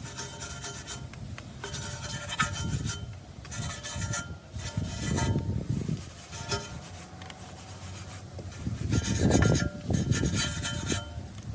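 A cloth rubbing over a car's body in repeated wiping strokes, about eight in all, each with a faint squeak.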